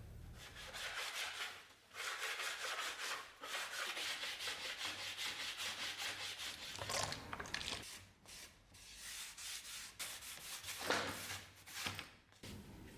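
Hand sanding: quick back-and-forth abrasive rubbing strokes in runs, breaking off briefly several times.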